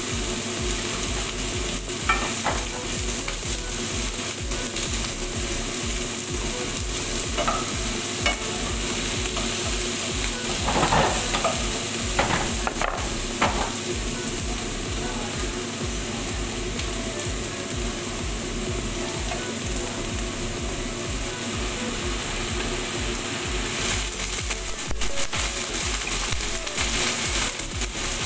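Diced zucchini sizzling as it fries in a pan, with a steady crackle and scattered knocks and scrapes of the utensil and pan, a brief louder clatter about eleven seconds in and more knocks near the end.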